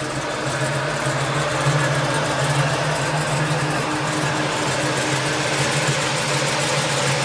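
Fuel-injected 396 big-block V8 of a 1970 Camaro idling steadily with an even, low hum.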